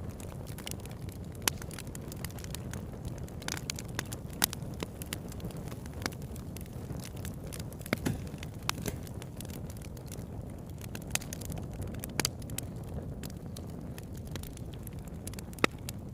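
Campfire burning: a steady low rumble of flames with irregular sharp crackles and pops from the burning wood, a handful of them louder than the rest.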